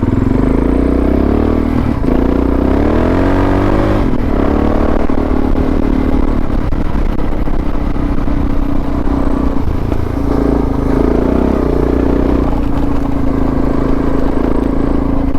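Suzuki DR650's single-cylinder four-stroke engine pulling the motorcycle along, rising in pitch over the first few seconds as it accelerates, then running steadily.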